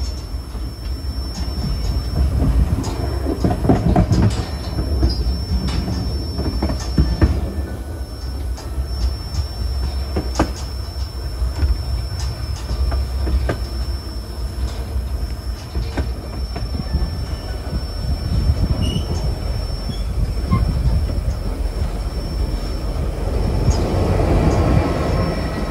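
White Pass & Yukon Route narrow-gauge passenger car rolling along the track: a steady low rumble with scattered sharp clicks from the wheels, and a thin high wheel squeal that drops out now and then.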